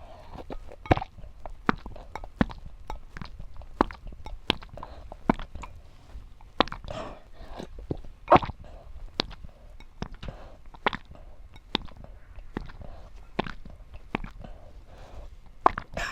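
A person chewing and eating eggs, with irregular sharp wet mouth clicks and smacks about once or twice a second.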